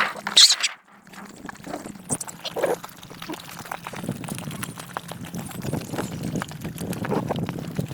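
Dogs and puppies eating, with many small chewing and lapping clicks and a few brief low animal sounds. A loud short sound comes about half a second in.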